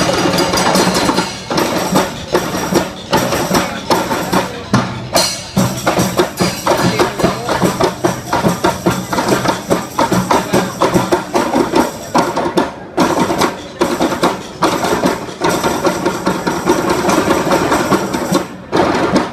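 Rampak percussion ensemble playing a fast, dense rhythm, many drums and percussion instruments struck together.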